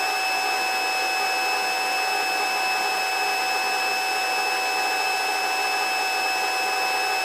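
Helicopter cabin noise in flight: a steady rush with several constant high-pitched whining tones from the rotor drive, unchanging throughout.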